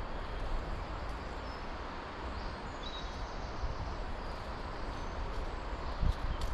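Wind rumbling on the microphone over a steady rustling woodland hiss, with a few faint high bird chirps in the middle.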